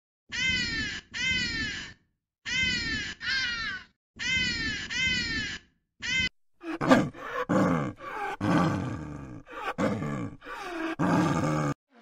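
Six falling meows from a long-haired Persian-type cat, in three pairs, then from about six seconds in an overlapping run of guttural calls with sharp clicks from northern bald ibises.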